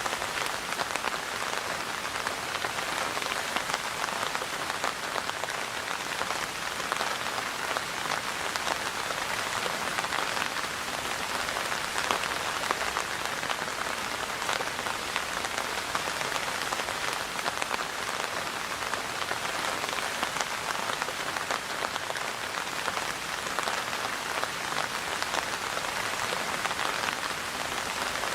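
Steady rain falling on a surface, a dense even patter of countless drops.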